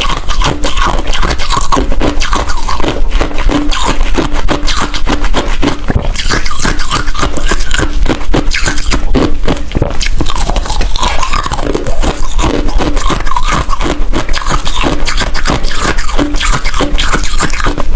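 Ice being bitten and crunched in the mouth close to the microphone: a dense, continuous run of sharp crunches and crackles with no pauses.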